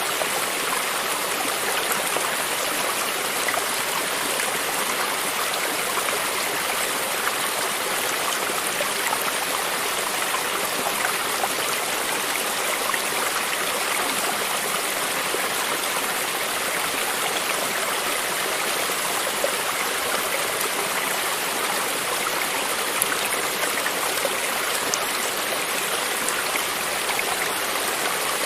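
A stream of running water flowing steadily, with a small splash or gurgle now and then.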